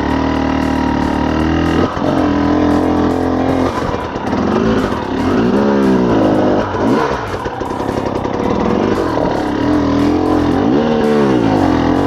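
Enduro dirt bike engine under load, its note held steady and then rising and falling twice as the throttle is worked, about halfway through and again near the end.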